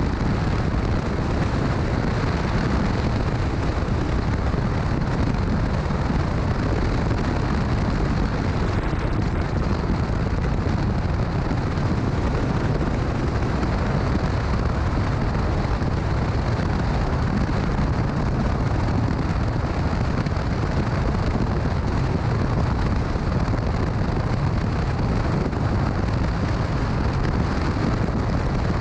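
Steady wind rush and buffeting over the microphone of a motorcycle riding at road speed, with the bike's running noise underneath.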